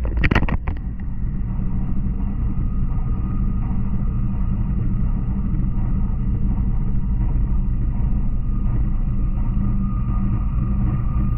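Cabin noise inside an N700 series Shinkansen running on the line: a steady low rumble of wheels and rushing air, with a brief louder burst in the first second.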